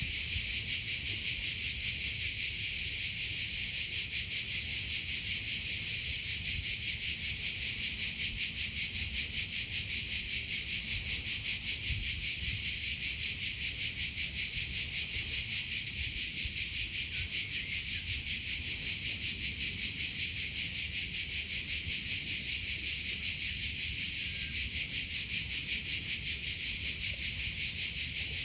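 Crickets chirping in a steady, dense chorus: a high-pitched trill that pulses rapidly and evenly without a break.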